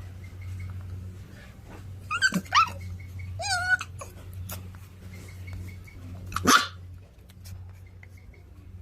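A dog giving short high yips about two seconds in, a wavering whine a second later, and one loud bark later on. A steady low hum runs underneath.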